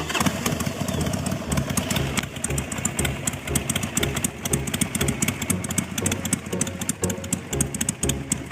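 A vehicle engine running at idle with a loud, uneven exhaust note: a rapid, ragged string of pulses that starts abruptly.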